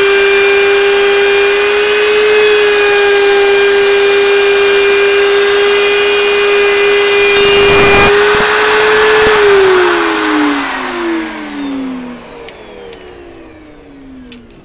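Two routers running in tandem on a router table with a steady high whine while a cedar strip is fed through, cutting its bead and cove edges. About nine seconds in the motors are switched off and the whine falls away in pitch as they spin down.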